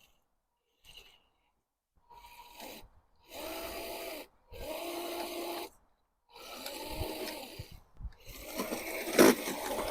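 Small RC crawler truck's electric motor and geared drivetrain whining in about five short bursts of throttle, each about a second long, with pauses between them; the last burst near the end is the loudest.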